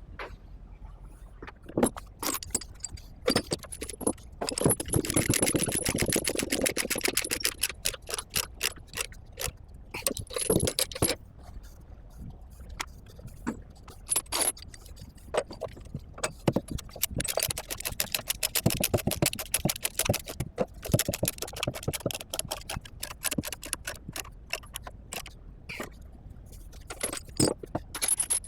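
Steel tie-down chains clanking and rattling as they are handled and hooked on while a load is chained down, in bursts of dense metallic clinking separated by quieter stretches.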